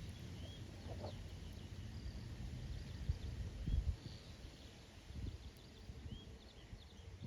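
Wind buffeting the microphone with a low, uneven rumble, while small birds call in short high chirps and whistles scattered throughout.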